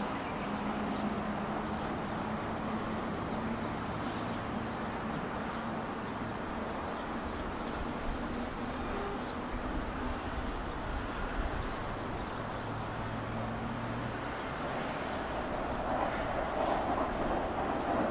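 JR 115-series electric train at the station: a steady rumble with a low hum, growing louder near the end.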